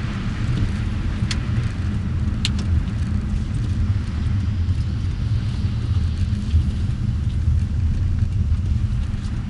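Steady low rumble of a car's engine and tyres on the road, heard inside the moving car's cabin, with two light clicks in the first few seconds.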